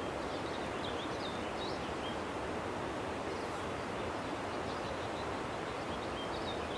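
Steady outdoor wind noise, even throughout, with a few faint, short high chirps from birds.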